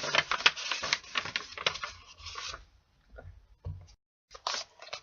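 A sheet of paper being folded and creased by hand: rapid crackling and rustling, busy for the first half, sparser after that, with a short break about four seconds in.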